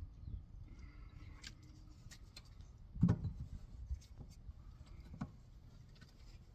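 Scattered clicks and light knocks of hands and tools working on a garden tiller, with one louder knock about three seconds in.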